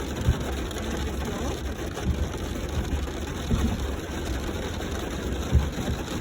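Heavy rain falling steadily over a low rumble, with a few dull firework thuds in the distance, the loudest about five and a half seconds in.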